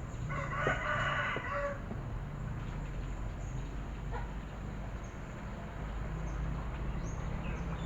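A rooster crows once near the start, for about a second and a half, over a steady low background hum, with faint short bird chirps later on.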